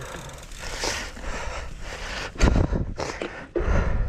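Mountain bike riding along a dirt trail: steady tyre and rattling noise, with two heavy low rumbles about two and a half and three and a half seconds in.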